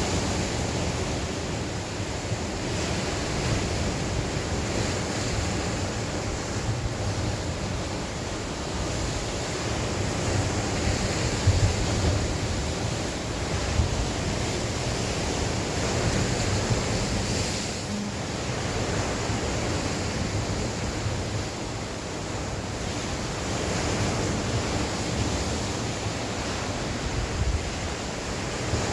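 Sea surf washing onto the shore in a continuous rushing noise that swells and eases gently, with wind rumbling on the microphone.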